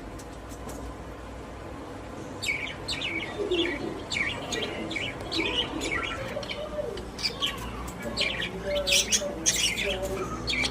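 Budgerigars chirping and chattering: a quiet start, then from about two seconds in many short high chirps mixed with lower warbling calls, getting busier toward the end.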